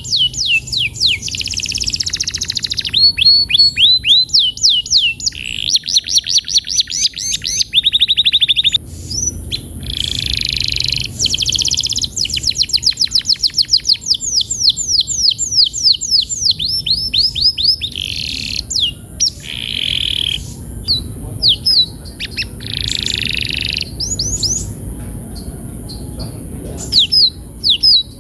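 Male domestic canary singing a long, continuous song: fast trills of repeated sweeping notes, many per second, alternating with dense buzzy rolling phrases.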